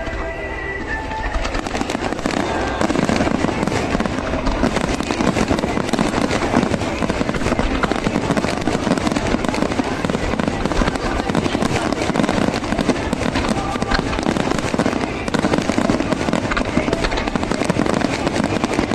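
Aerial fireworks going off in quick succession: a dense, continuous crackling of many small pops over low booms, building up about a second and a half in and staying loud.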